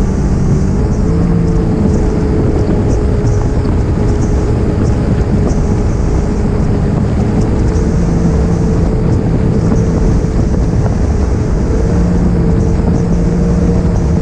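Jet ski engine running steadily at speed, its pitch lifting slightly about a second in and again near the end, over a rush of wind and water noise.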